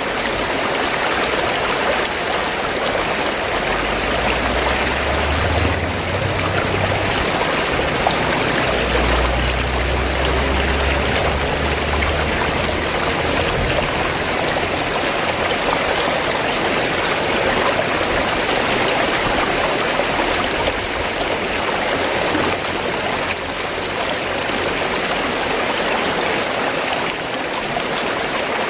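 Fast-flowing stream of water gurgling and rushing steadily. A low rumble comes and goes twice in the first half.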